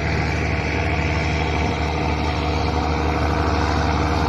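Heavy truck's diesel engine running steadily at a constant, low engine speed.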